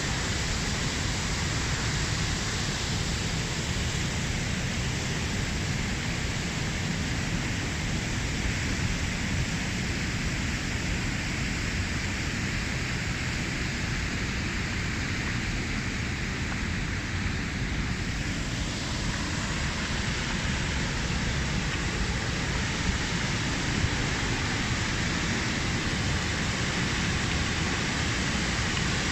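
Waterfall: water rushing and splashing in a steady roar of even noise.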